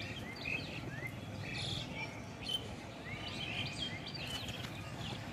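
Small birds chirping: many short, mostly rising chirps scattered throughout, over a steady low background noise.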